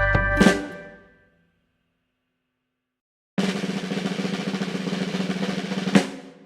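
Background music ends on a sharp hit that rings away. After about two seconds of silence, a drum roll of about two and a half seconds begins and ends on a single crash.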